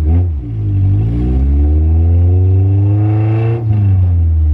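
Manual-gearbox car engine under acceleration: its pitch climbs steadily for about three seconds, then drops suddenly as it shifts up, and it runs on steadily at lower revs.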